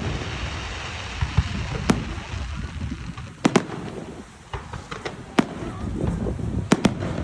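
Fireworks going off: sharp bangs of bursting shells at irregular intervals, some in quick pairs, over a steady low rumble.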